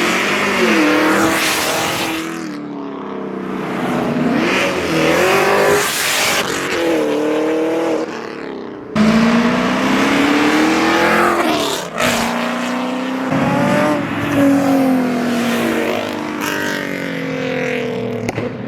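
Car engines revving hard again and again, the pitch climbing and falling with each pull, over a steady hiss; the sound drops out briefly about nine seconds in and comes straight back loud.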